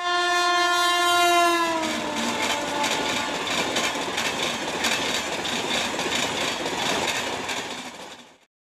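Indian Railways electric locomotive's horn sounding one long blast that drops in pitch as the locomotive passes, then the noise and rhythmic wheel clatter of its passenger coaches going by, fading out near the end.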